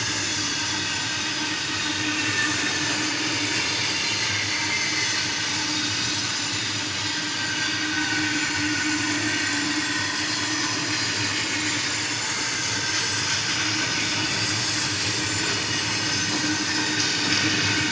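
Train running along the track at steady speed: a continuous noise with a faint steady hum.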